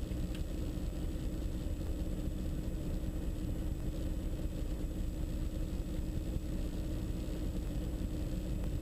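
Twin Austro diesel engines of a Diamond DA42 NG running steadily at low taxi power, heard as a muffled, even drone inside the cockpit.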